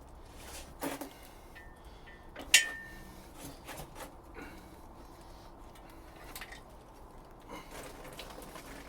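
Scattered clinks and knocks of hand tools and metal engine parts being handled, the loudest a sharp ringing metal clink about two and a half seconds in, with a smaller knock about a second in.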